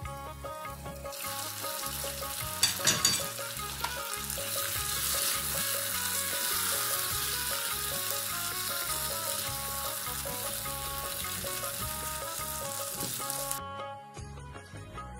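Chicken keema frying in a miniature pan, with a steady sizzle that stops abruptly near the end. A few sharp metal clinks come about three seconds in, with background music underneath.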